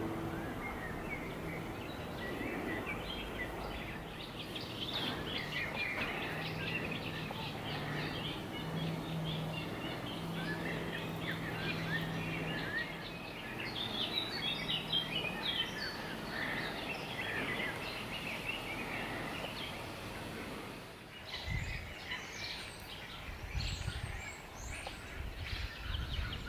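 Small birds chirping and calling over steady outdoor ambience. A faint low hum runs under the first half, and low rumbling bumps come in over the last few seconds.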